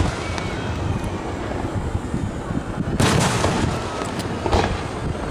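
Aerial firework shells booming: a loud boom about three seconds in, then a smaller one about a second and a half later, over a steady low rumble.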